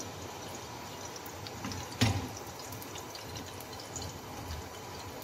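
Prawns sizzling in hot oil in a karahi, with small crackles and spatters of the oil. A single sharp knock about two seconds in.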